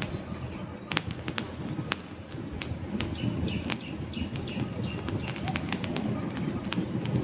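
Wood campfire burning: a steady low rumble of flames with frequent sharp, irregular crackles and pops from the logs. A faint high-pitched thin tone comes and goes in the middle.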